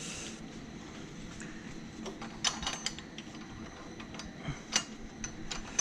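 Irregular sharp metal clicks from hand tools working on the camshaft gear bolts of an Audi 2.6 V6, including short runs of ratchet clicking. The loudest clicks come in a cluster about two and a half seconds in and again near the end.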